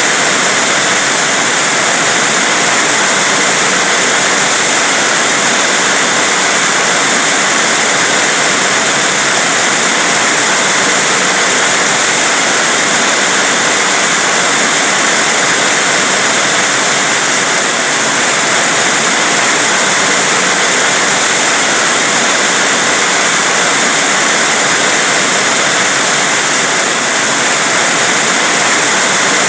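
Heavy rain falling, a loud, steady, dense hiss with no break.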